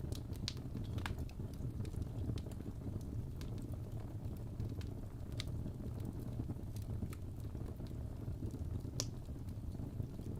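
Fireplace fire crackling: a steady low rumble with scattered sharp pops at irregular intervals, one of the loudest about nine seconds in.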